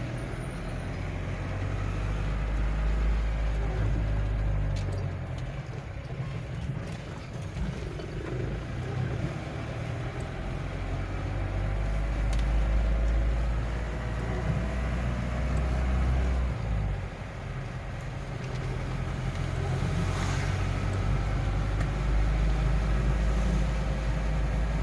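Strong cyclone wind buffeting the microphone: a heavy low rumble that surges and eases in gusts, dropping off briefly twice.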